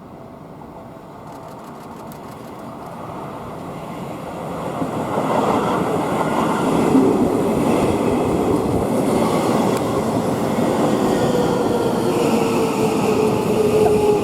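A Seibu 6000-series electric commuter train pulling into the station, growing louder over the first five seconds. It then runs past with a steady rumble of wheels and a motor tone falling slowly in pitch as it brakes.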